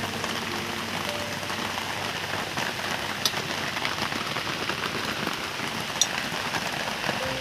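Steady rain falling, an even hiss, with a couple of sharper drip clicks about three and six seconds in.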